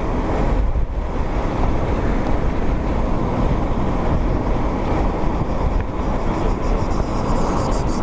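Heavy wind buffeting the microphone over a steady low rumble, unbroken until it cuts off abruptly near the end.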